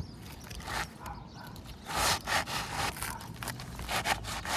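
Asphalt roofing shingles scraping and rubbing against each other in a series of short, rough strokes as a replacement shingle is worked into place.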